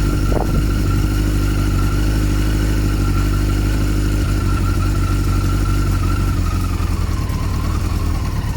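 1988 Kawasaki GPZ900R's inline-four engine idling steadily and smoothly, its exhaust quietened by a homemade brass dB killer. The engine speed sags slightly near the end.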